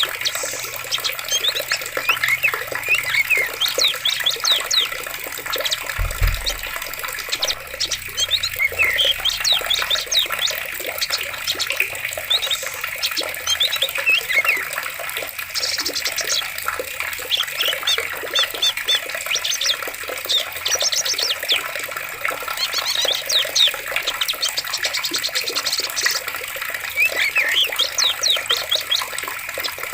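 Water flowing steadily in a forest stream, with many songbirds chirping and trilling over it throughout.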